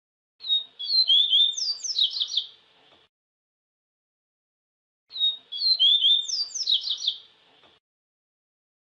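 A papa-capim seedeater (Sporophila) singing its song twice: a phrase of about two and a half seconds of quick, high whistled notes and sweeping chirps, then a pause of about two seconds before the same phrase again.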